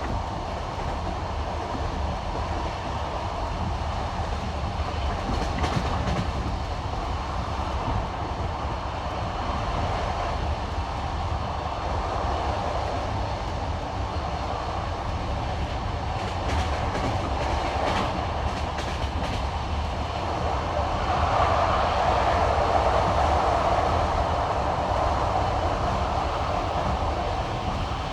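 Passenger train carriage running at speed on jointed (non-welded) rail: wheels clacking over the rail joints above a steady rolling rumble, which grows louder for a few seconds about three-quarters of the way through.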